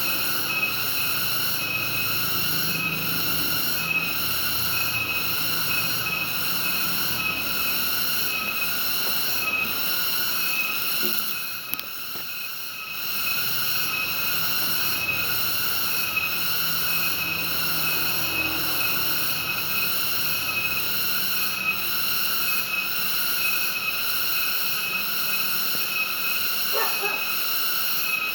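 A dense night chorus of frogs and insects calling together, pulsing in an even rhythm, with a brief dip a little before halfway.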